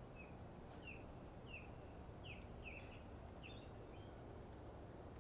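Faint bird chirping: a string of short, downward-sliding chirps, about eight in all, over a low steady hiss of wind, with a couple of faint sharp clicks.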